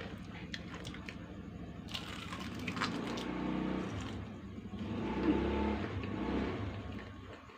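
Close-miked chewing of crispy fried spicy chicken: crunching with scattered crackles and clicks, louder about five seconds in.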